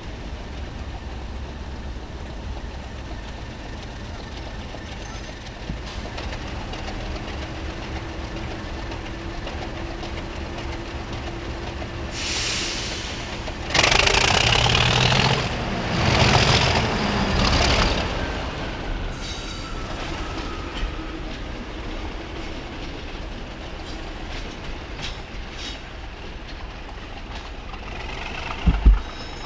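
A train running on the line, with a steady rumble and a few loud surges for several seconds about halfway through as it passes closest.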